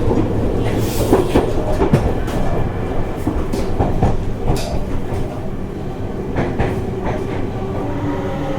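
Seibu 30000 series electric train heard from inside the carriage, running with a steady rumble and wheels clacking over rail joints. Near the end a motor whine comes in and begins to rise in pitch.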